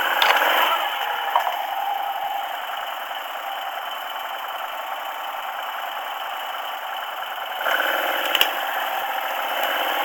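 Quad (ATV) engine running with rattling and clatter, quieter in the middle and getting louder again a little before the end, with a sharp click soon after.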